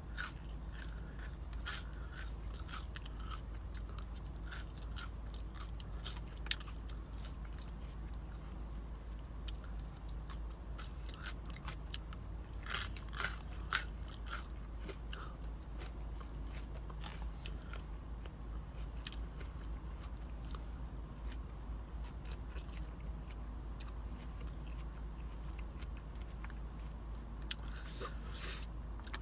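A person chewing mouthfuls of salad close to the microphone, with scattered crisp crunches and clicks, over a low steady hum.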